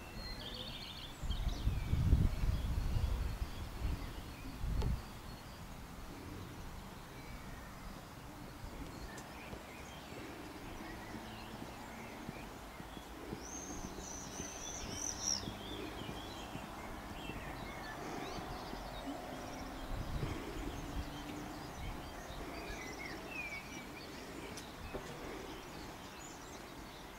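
Open-air ambience with small birds chirping now and then; the clearest is a high twittering phrase about halfway through. Low rumbling on the microphone comes in the first few seconds and again briefly later.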